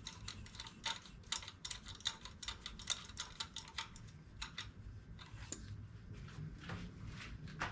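Ratchet wrench clicking in quick, irregular runs as spark plugs are run down into the engine's cylinder head.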